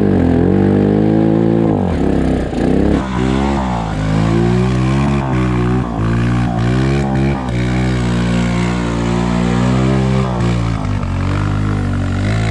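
Engines revving up and down over and over, with a steadier engine note running underneath.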